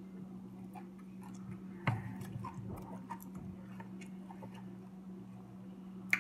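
Close-up mouth sounds of a person chewing fried chicken: scattered small wet clicks and smacks, with a louder smack about two seconds in and another at the end.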